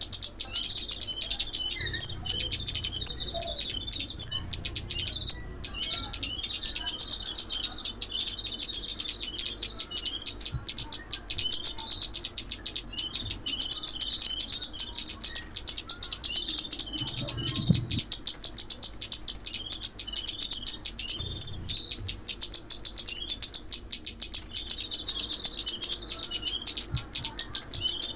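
Sunbird (the 'ốc mít' or 'hút mật xác pháo') singing a rapid, unbroken string of high twittering chirps over a thin, steady high note, played as a trapping lure call.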